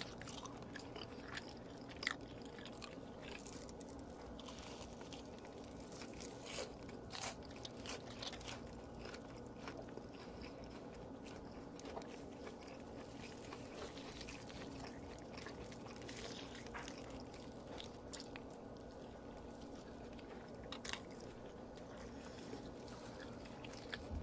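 Mukbang eating sounds: a person biting and chewing cheese close to the microphone. Scattered sharp mouth clicks and crunches sound several times over a faint steady hum.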